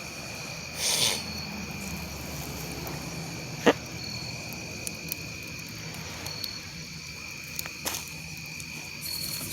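Crickets chirping steadily in a night chorus, with campfire wood popping now and then: one sharp loud pop just before the middle and a few smaller snaps later. A short hissing burst comes about a second in.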